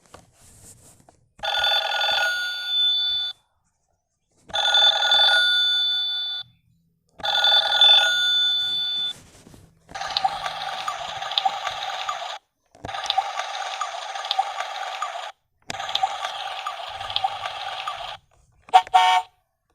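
Telephone ringing sound effect: six rings of about two seconds each with short pauses between, the last three a fast trembling bell-like ring. Two short sharp notes come near the end.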